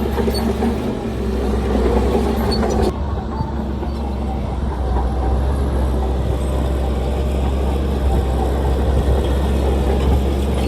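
Heavy diesel earthmoving machinery running steadily with a deep, low engine rumble; about three seconds in the higher clatter drops away and the low rumble carries on.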